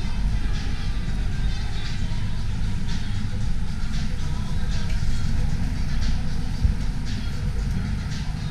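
Steady low rumble of city street ambience: traffic running past, with wind from the snowstorm buffeting the microphone.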